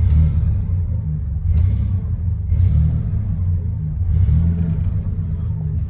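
1994 Dodge pickup's engine running after a cold start, a low rumble that swells and eases back about four times as the throttle is blipped. It sounds healthy: 'she running great' at 185,000 miles.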